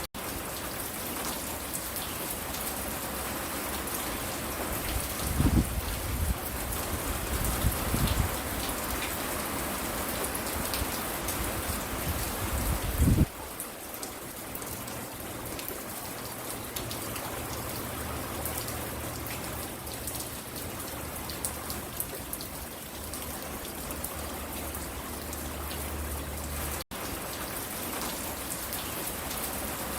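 Steady rain falling and pattering on the porch and surroundings. A few louder low thumps come between about five and thirteen seconds in, and the sound cuts out for an instant about 27 seconds in.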